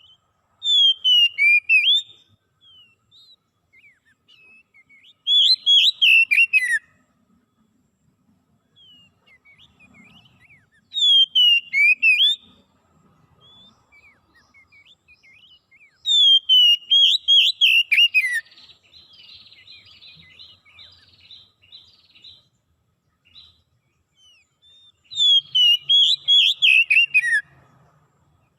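A songbird singing in five loud phrases of quick sweeping whistled notes with high chips, each phrase a second or two long with short pauses between. A softer buzzy trill follows the fourth phrase.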